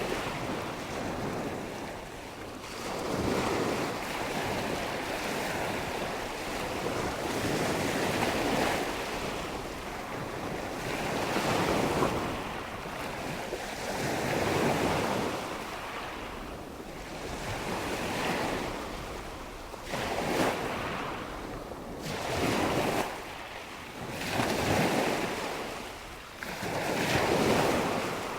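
Wind-and-water nature ambience: a steady rushing noise that swells and ebbs every few seconds.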